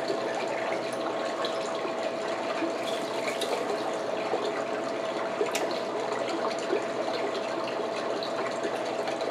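King crab legs being handled and their shells cracked: a few small clicks and crackles over a steady hiss with a faint hum.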